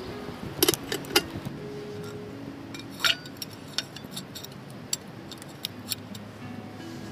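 A few sharp clinks and many light ticks, scattered irregularly, over soft background music.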